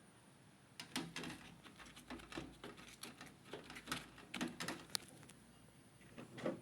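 Faint, irregular clicks, taps and rustles of handling, starting about a second in.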